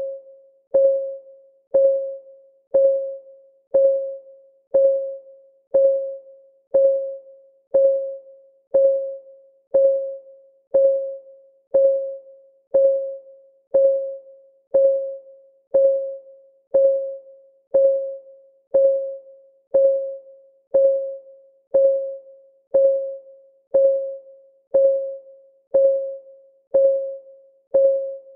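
Clock ticking sound of a countdown timer: a short pitched tick about once a second, each dying away quickly, in an even, unbroken beat.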